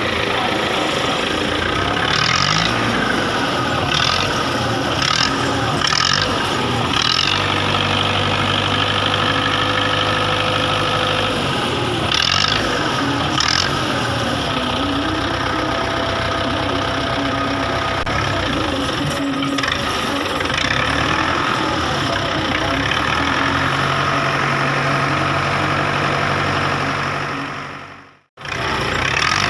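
Belarus 510 tractor's diesel engine running, its pitch shifting now and then, with a few short hissing bursts in the first half. The sound cuts out abruptly shortly before the end, then resumes.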